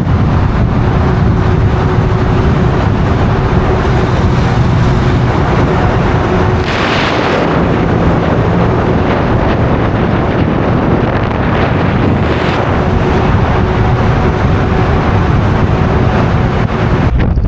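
Steady vehicle running noise, loud and even, with wind buffeting the microphone.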